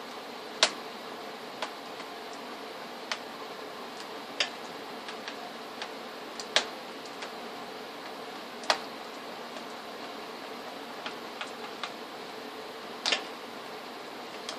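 Irregular small clicks and taps, a dozen or so spread unevenly, a few of them sharper, over a steady hiss with a faint hum: the small tool and handling sounds of work on a laptop.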